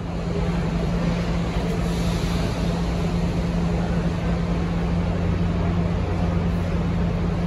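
Parked NJ Transit commuter trains standing at the platform, a steady low hum with a constant background rush.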